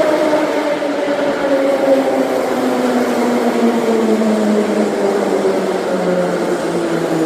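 Metro train's electric traction motors whining, the pitch falling steadily as the train slows down.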